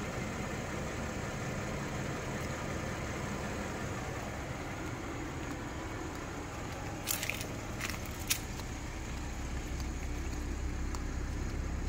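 BMW X3 M40i's 3.0-litre turbocharged inline-six idling steadily, a low even hum that grows fuller about nine seconds in. A few sharp clicks come about seven to eight seconds in.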